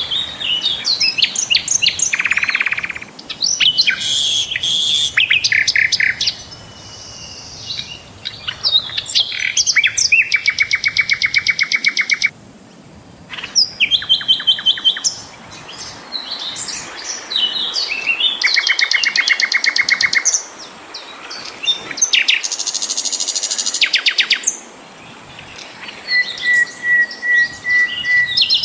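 Sikatan londo flycatcher singing loudly: a varied song of quick high chirps and fast rattling trills of rapidly repeated notes, in phrases a few seconds long with short pauses between them.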